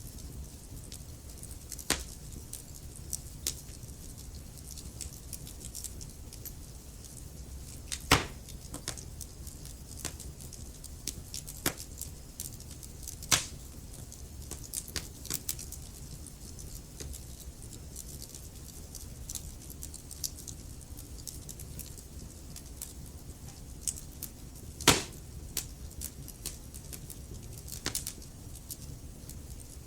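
Wood fire crackling in a fireplace: irregular sharp pops and snaps over a low steady rumble of the flames, with the loudest pops about eight, thirteen and twenty-five seconds in.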